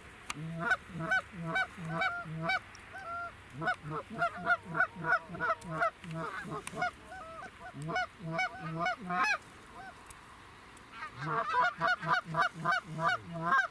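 Geese honking: a rapid run of short, overlapping honks and clucks that pauses briefly about two-thirds of the way in, then starts again.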